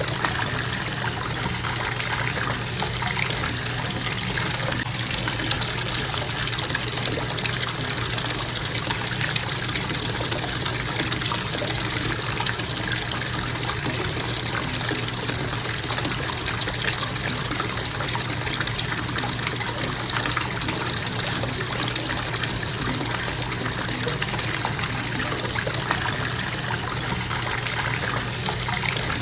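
Bathtub faucet running into the tub in a steady constant flow of water.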